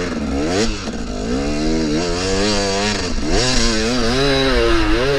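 KTM 300 two-stroke dirt bike engine revving, the revs rising and falling again and again as the throttle is worked.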